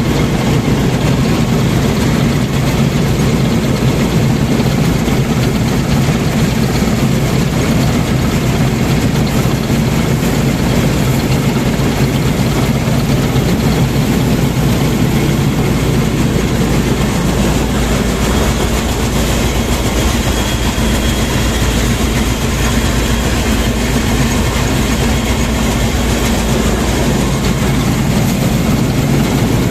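Combine harvester's diesel engine running loud and steady at a constant speed.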